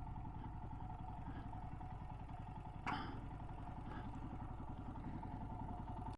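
Royal Enfield Himalayan's single-cylinder engine idling steadily, with a short clack about three seconds in.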